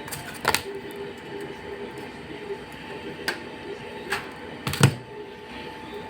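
Tools and parts being handled while working on a clothes dryer: four sharp clicks and knocks, the loudest near the end, over a steady hum.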